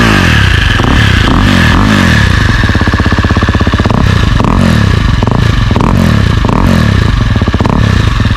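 KTM 350 Six Days 2022 single-cylinder four-stroke engine breathing through a newly fitted Akrapovic full exhaust, revved in a series of quick blips. It settles to a steady idle for a moment about two and a half seconds in, then is blipped repeatedly again.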